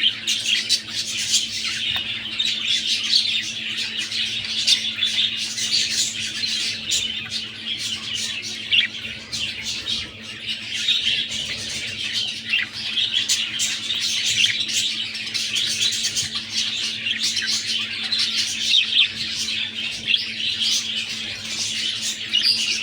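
Budgerigars chirping and chattering continuously, many short calls overlapping, with a steady low hum underneath.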